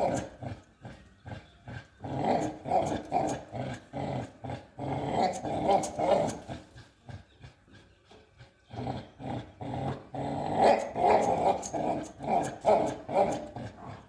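American Pit Bull Terrier growling in long, rapidly pulsing bouts, with a pause of about two seconds midway.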